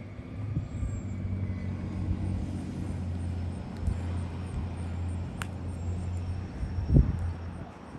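A car driving past, its engine a steady low hum, with a single thump near the end.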